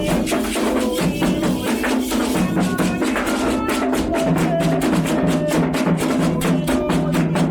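Candomblé ritual music: hand drums and percussion beaten in a fast, steady rhythm, with held, pitched sung lines over it.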